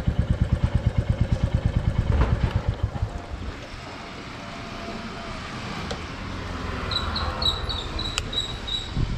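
Motorcycle engine running with a rapid, even pulsing that drops away after about three seconds to a quieter steady noise. Near the end there are a few short, high chirps.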